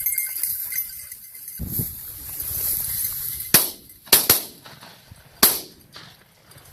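Shotgun shots: four sharp reports, one about halfway through, two close together a moment later, and one more near the end.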